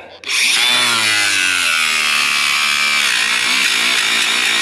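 Reciprocating saw (Sawzall) starting up and cutting through the water line pipe. Its motor pitch drops over the first couple of seconds as the blade bites, then runs steady.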